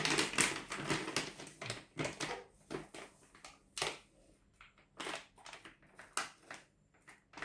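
Irregular scrapes and light knocks of kitchen utensils against a bowl as rice flour is added to ground semolina.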